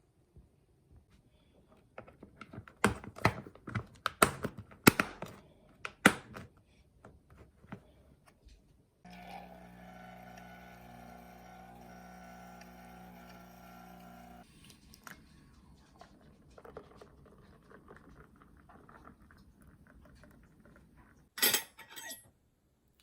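Kitchen clatter: dishes and utensils knocked and set down in a quick run of sharp knocks, with a steady mechanical hum for about five seconds in the middle and another loud clatter near the end.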